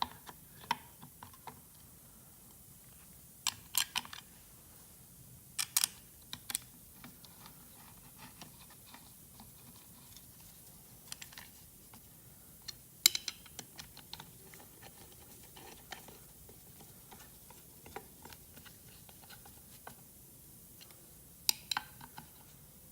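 Scattered sharp clicks and light knocks of small hard parts being handled, as a pull-start (ripcord) unit is fitted onto a small two-stroke engine. The clicks come in short clusters a few seconds apart, with quiet between.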